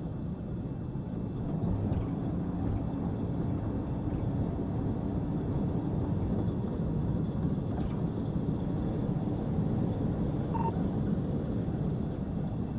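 Steady low vehicle rumble with no marked change in level.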